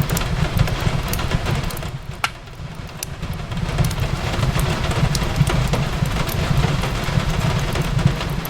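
Fireplace crackling with irregular sharp pops over a steady low rumble, mixed with the hiss of rain on a window.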